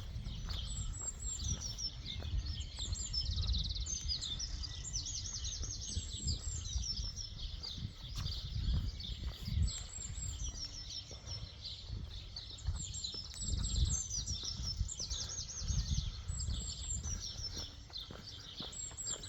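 Small songbirds chirping and twittering in quick runs of repeated high notes, several calls overlapping, over a low uneven rumble.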